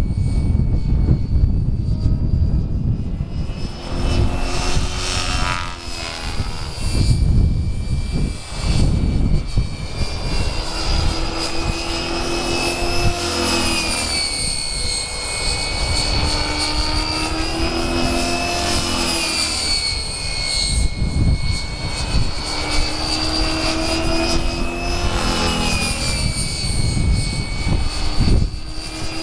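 Gaui X5 RC helicopter in flight: a high whine from its motor and rotors that rises and falls in pitch as it manoeuvres, over a steady low rumble.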